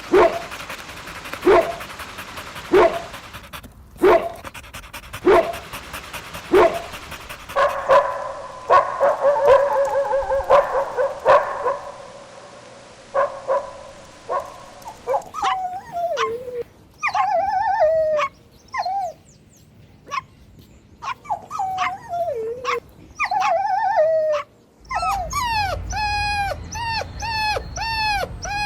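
Puppies barking, evenly spaced about once every second and a half at first, then a busy stretch of yapping, then high whimpers and whines, many falling in pitch, ending in a quick run of short whines.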